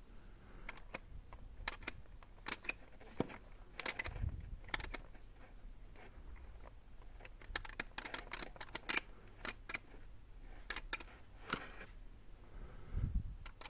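Irregular small plastic clicks and taps from handling a talking toy, its button being pressed again and again, with a couple of dull bumps. The toy stays silent: its button is not working.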